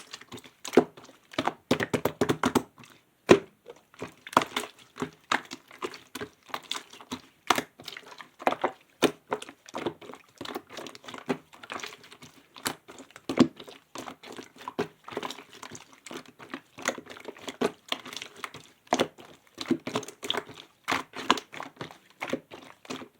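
Clear slime being squeezed, folded and stretched by hand, giving an irregular run of sticky pops and crackles.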